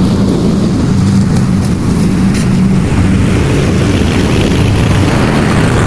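Lawn mower engine running steadily while mowing grass.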